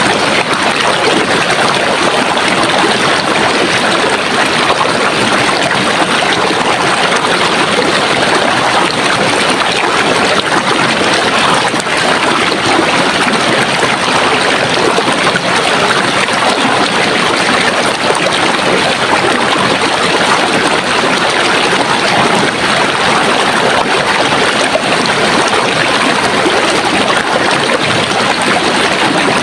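Running water: a stream flowing with a steady, even rush.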